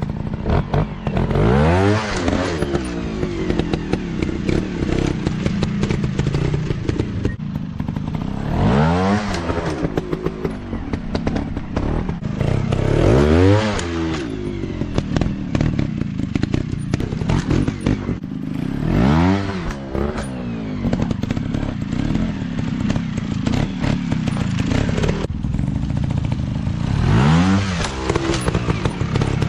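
Dirt bike engine running rough and steady, revving up and back down about five times, with a rattly, clattering edge.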